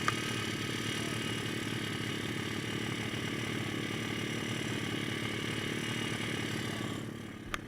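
Small single-cylinder four-stroke pit bike engine running steadily under way, easing off about seven seconds in, followed by a single sharp click.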